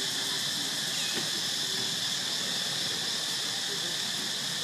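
Steady, unbroken drone of insects, a dense high-pitched hiss, with faint brief chirps now and then underneath.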